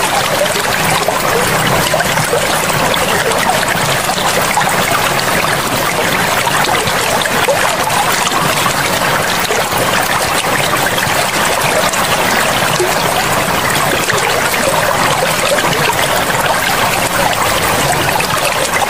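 Forest river running steadily, a dense, even rush of flowing water.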